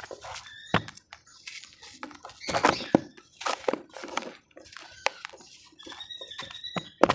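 Damp, cement-like crumble material being broken and crushed, giving an irregular series of crunches and crackles. The crunches come thickest a little over two seconds in and again just before the end. A few short squeaky sounds occur about six seconds in.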